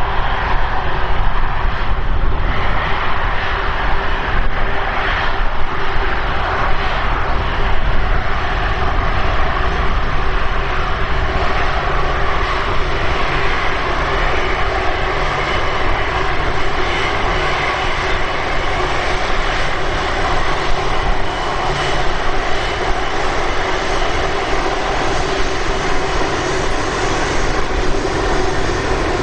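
Jet engines of a DHL Airbus A330 freighter running steadily: a loud, even rush with a steady low hum, and a faint high whine that comes in about halfway through.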